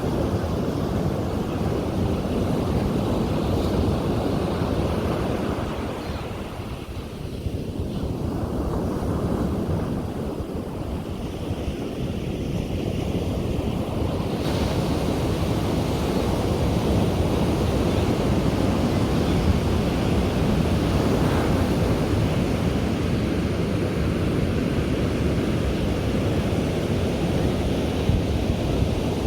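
Sea waves breaking and washing up on a beach, a continuous surf roar that eases off briefly and then builds again, with wind buffeting the microphone.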